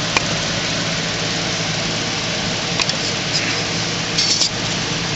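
Steady hiss with a faint low hum, and a few small clicks and taps about three and four seconds in as hands work an injector O-ring onto the intake manifold runner shaft.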